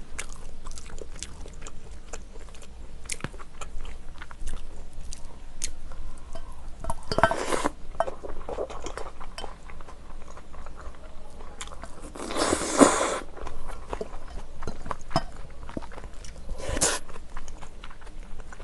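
Close-miked chewing of a mouthful of kimchi-braised pork ribs topped with cheongyang chili peppers, with many small wet mouth clicks. Three short, louder hissing rushes come about seven, twelve and seventeen seconds in.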